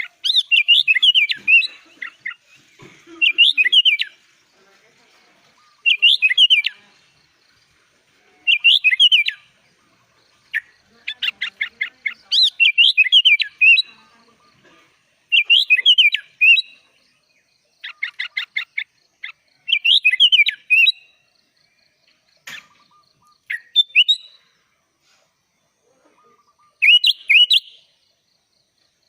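Sooty-headed bulbul (kutilang) singing loudly in short, bubbly whistled phrases of about a second, repeated every two to three seconds, a few of them led by a quick trill.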